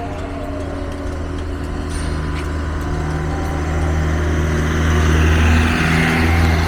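A motor vehicle's engine running with a steady low hum, growing louder over the last couple of seconds as it draws nearer.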